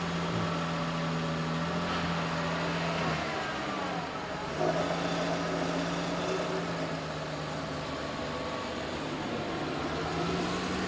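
A car engine running nearby at a steady low hum, its pitch dipping about three seconds in and rising again near the end.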